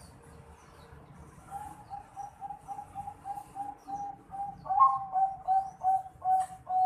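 Young Bangkok-strain zebra dove (perkutut), about four and a half months old, calling in a run of short coo notes: soft and quick at first, about four a second, then slower and much louder for the last half-dozen notes.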